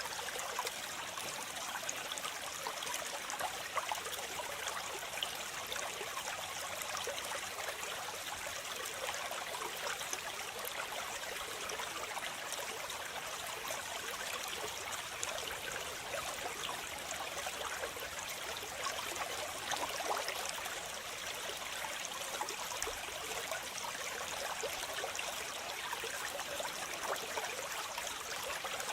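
Waterfall water splashing and running steadily, an even rushing hiss with fine splashes and little low rumble.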